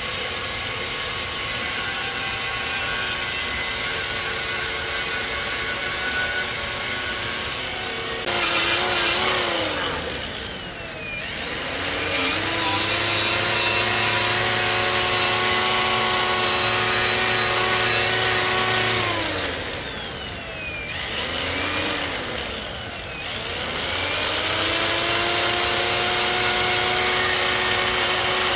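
A steady machine hum, then a hand-held power tool starts, loud and harsh. Its motor whine drops twice as it is bogged down under load and speeds back up each time.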